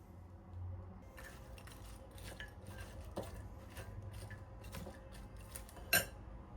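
Kitchen utensils and dishes being handled: a run of light clicks and clinks, with one sharper knock near the end.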